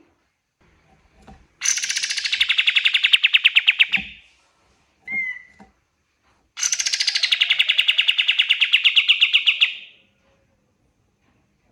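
Kapas tembak singing: two long, rapid trills of about three seconds each, each starting high and settling lower, with a short single note between them.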